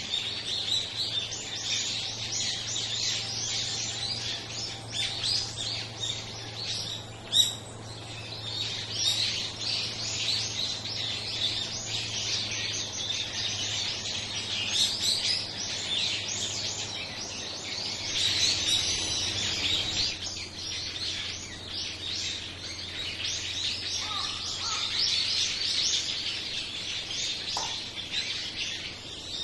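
A flock of small birds chirping and calling without pause, many short high calls overlapping, with one sharper, louder call about seven seconds in.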